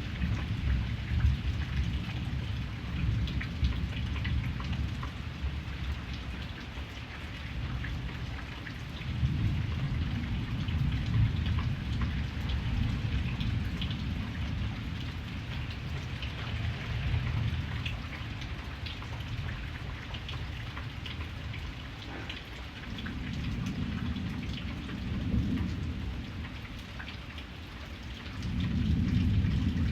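Steady heavy rain hissing, with the patter of individual drops, under low rolling thunder that swells and fades several times, building again near the end.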